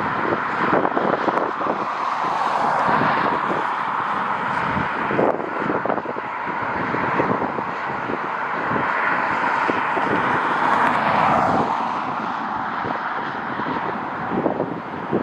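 Jet airliner's engines running steadily as it passes, a continuous rushing noise that eases after about twelve seconds, with wind gusts buffeting the microphone throughout.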